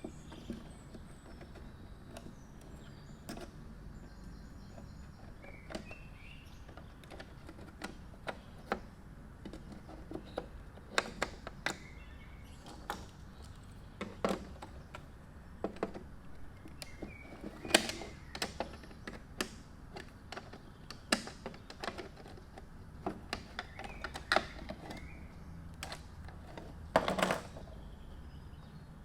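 Scattered small clicks and knocks of a replacement UV-C bulb and the cordless vacuum's lamp housing being handled and fitted, with a short louder clatter near the end.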